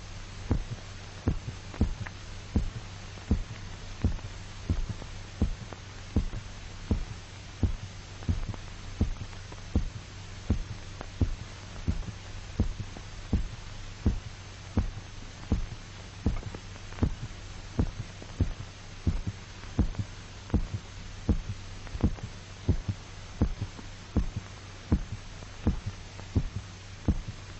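A dog's heartbeat, amplified, beating in a regular rhythm of about one and a half beats a second over a steady low hum. The heart is still beating while the dog's blood is being drained through the carotid artery.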